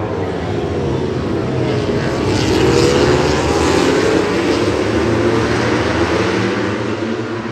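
An aircraft flying over, its engine drone swelling through the middle and slowly fading toward the end.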